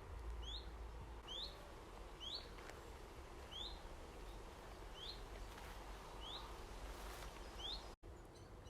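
A small bird repeating a short, high, rising call, about seven times at roughly one-second intervals, over a steady low rumble of outdoor background noise.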